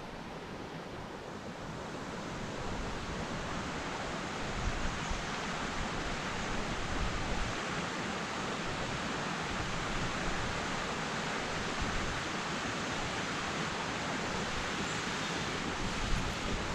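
Steady rushing of flowing water, growing a little louder a few seconds in and then holding even.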